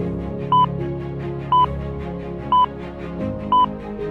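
Countdown-timer beeps: a short electronic beep once a second, four in all, over soft steady background music.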